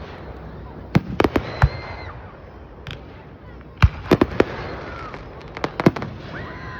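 Fireworks going off in three quick clusters of sharp cracks, about a second in, near four seconds and near six seconds, with faint thin whistles between the cracks.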